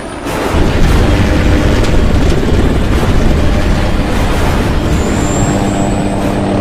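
Film sound mix of a helicopter in flight: a dense engine and rotor noise with a heavy, deep rumble that swells up about half a second in and holds. Near the end a thin high whine and low sustained tones join in.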